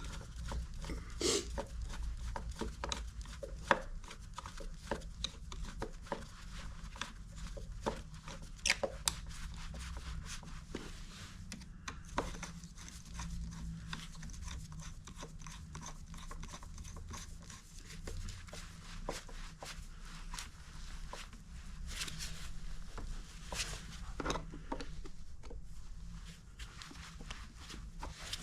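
Irregular clicks, taps and rubbing from hands working with tools and parts, over a low steady rumble.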